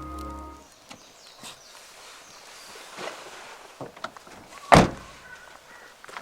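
Background music stops about a second in. Quiet outdoor ambience with scattered small knocks follows, then one sharp, loud thump near the middle, with a few softer knocks after it.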